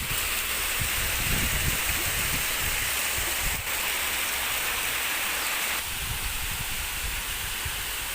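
Steady rushing and splashing of water falling in an ornamental garden waterfall, with irregular low rumbles. The sound drops slightly in level about six seconds in.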